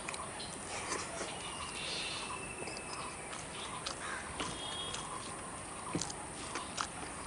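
Eating sounds of rice and dal being eaten by hand: chewing with scattered wet mouth clicks, over a steady background hiss.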